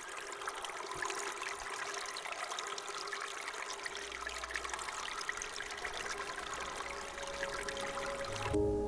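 Creek water running and trickling steadily, cutting off abruptly near the end as soft ambient music comes in.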